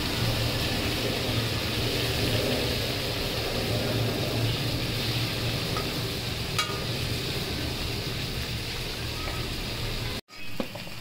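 Whole prawns frying in hot oil in a metal wok, sizzling steadily over a steady low hum, with a spatula clicking against the pan once about two-thirds through. The sound cuts out abruptly near the end and comes back quieter.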